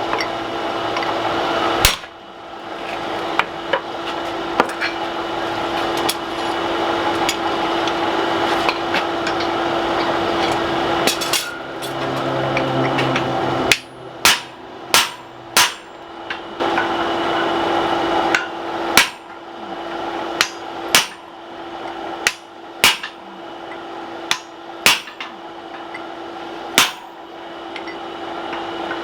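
Hand hammer striking a punch into hot mild steel on an anvil, punching the eye of a small axe head. There are scattered ringing blows early on, then steady strikes about one a second from about halfway through, over a steady hum.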